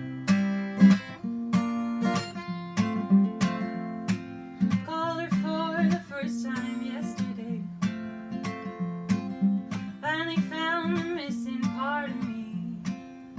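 Acoustic guitar strummed in a steady rhythm, with a solo voice singing two lines over it, the first about five seconds in and the second about ten seconds in.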